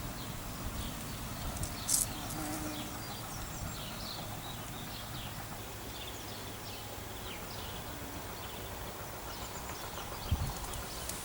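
Garden ambience with many small birds chirping on and off over a steady low background noise. There is a sharp click about two seconds in and a low thump near the end.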